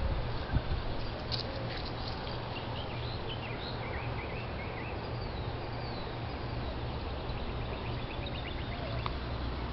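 Faint, short high chirps of small birds, a loose run of calls in the first half and a quicker series of ticking calls near the end, over a steady outdoor hiss and low rumble.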